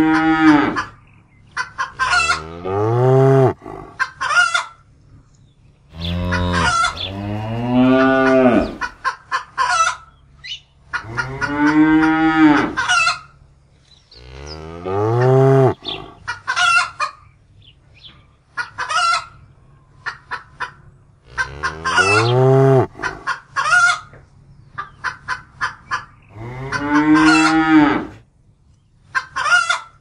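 Water buffaloes calling over and over: long, low moaning calls that rise and fall in pitch, one every few seconds. Short, high clucking sounds come between the calls.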